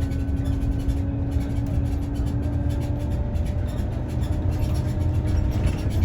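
Scania OmniLink city bus under way, heard from inside: a steady low engine and road rumble with a faint whine that slowly rises in pitch.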